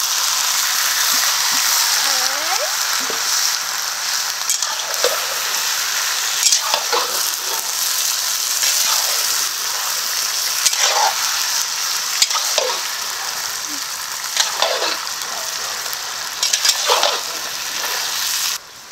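Freshly added marinated chicken pieces sizzling loudly in hot mustard oil in a kadai, with a metal spatula scraping and turning them every second or two. The sizzle drops away suddenly just before the end.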